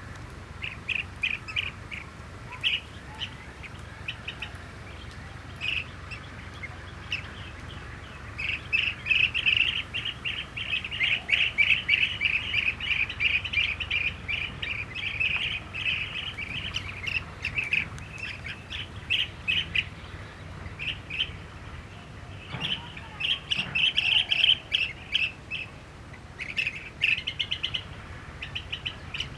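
Blue-tailed bee-eaters calling: short rolling trills repeated in rapid runs, thickest in the middle stretch and again about three-quarters through, over a low steady background rumble.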